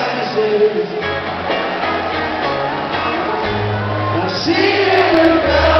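Indie rock band playing live in a concert hall: a sung lead vocal over electric guitar and bass, with the bass notes changing every second or two and crowd voices underneath.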